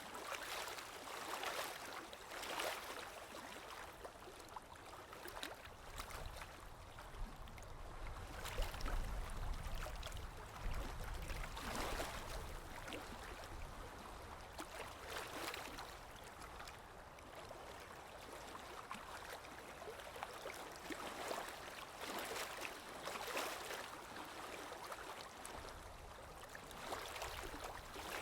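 Sea waves lapping and splashing at the shore, a steady wash with a splash every second or two and a low rumble swelling up and fading away near the middle.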